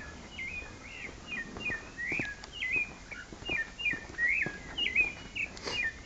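A songbird singing a fast run of short chirping notes, three or four a second, with footsteps on the path underneath.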